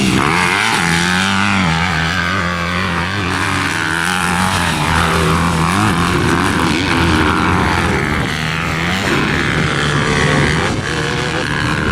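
Motocross dirt bike engines running hard on the track, their pitch rising and falling with throttle and gear changes.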